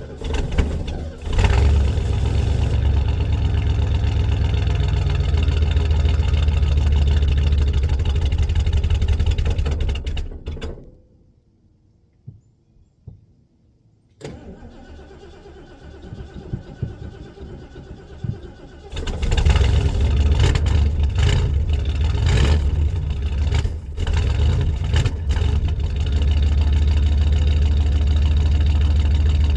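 Ford 460 big-block V8 in a 1967 Galaxie, cold-started: it catches and runs loud. About ten seconds in it goes quiet for a few seconds, then about nineteen seconds in it runs loud again, with a few sharp rises in level, to the end.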